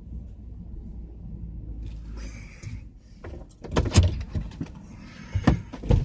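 A vehicle engine idling with a steady low rumble. A short rasping sound about two seconds in is followed by several loud thumps and knocks from about four seconds in.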